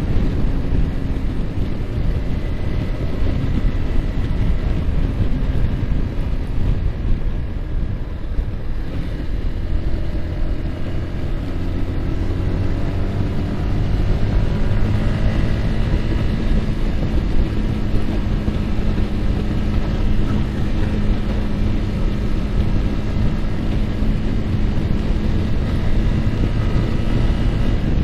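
Yamaha R15's single-cylinder engine running at road speed under heavy wind rush on the microphone. The engine note eases off about eight seconds in, then climbs over a few seconds and holds steady.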